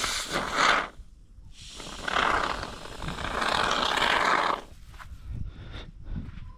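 Rough scraping noise in two stretches, a short one at the start and a longer one of about three seconds from about one and a half seconds in, followed by a few faint knocks.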